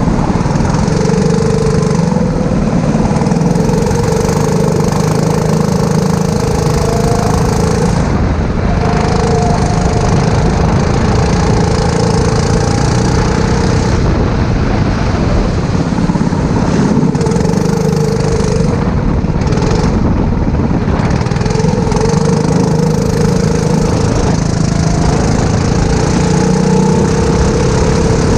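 A four-stroke kart engine running hard, recorded onboard. Its note holds steady, then dips and picks up again several times as the throttle is lifted and reapplied.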